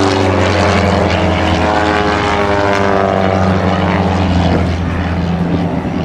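Propeller airplane flying past, its engine drone falling in pitch as it goes by.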